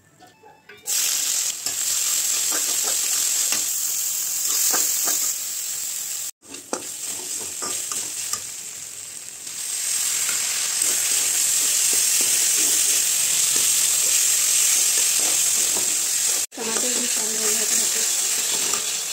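Chopped onion and tomato sizzling in hot oil in a kadhai, stirred and scraped with a metal spatula. The sizzle starts abruptly about a second in, cuts out briefly twice, and grows louder about ten seconds in, once the tomatoes are in the pan.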